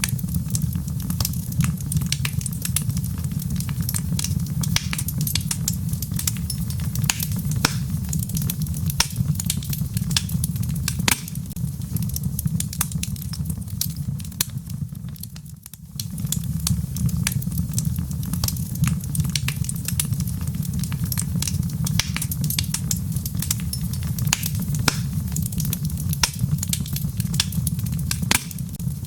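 Wood fire crackling, with many sharp pops and snaps over a steady low rumble, and rain pattering. The sound fades briefly about halfway through, then comes straight back.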